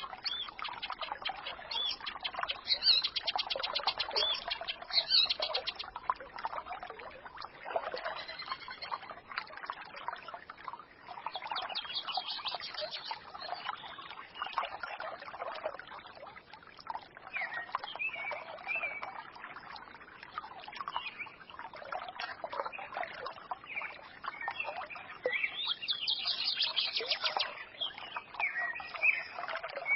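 A forest stream murmuring steadily, with small birds twittering over it in scattered short chirps and a few bursts of rapid, high trilling calls.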